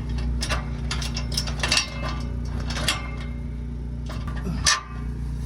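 Metal clinks and knocks as exhaust pipe parts are worked and fitted into place, several sharp ones spread through, over a steady low hum.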